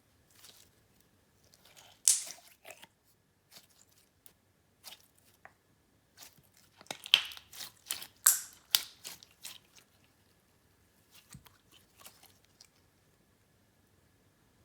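Clear slime being stretched and pressed by hand, giving off irregular sticky clicks and pops. The loudest cluster comes about halfway through.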